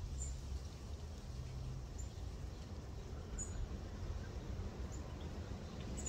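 Steady low outdoor rumble with about four faint, very short, high-pitched bird chirps spread a second or two apart.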